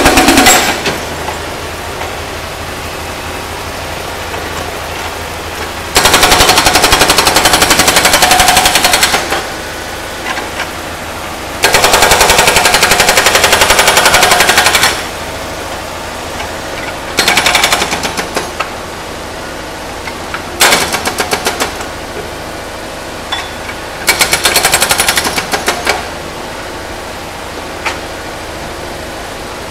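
Hydraulic breaker on a Kubota U50-5S mini excavator hammering an old engine block in several bursts of rapid strikes, each a few seconds long, the last ones shorter. The excavator's diesel engine runs steadily in between.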